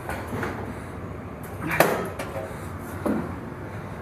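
A door being shut and latched: a sharp clunk about two seconds in, then a lighter knock about a second later.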